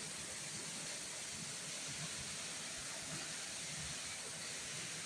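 A steady, even hiss of background noise, with no distinct events.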